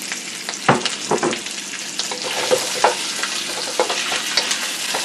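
Sliced sausage and chopped onion sizzling in oil in a stainless steel wok, stirred with a wooden spatula. The spatula knocks and scrapes against the pan at irregular moments over the steady hiss of the frying.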